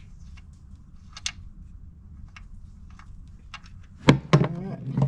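Scattered light clicks and taps from handling parts under a car, over a steady low rumble. About four seconds in come a couple of louder knocks and a short voice-like sound.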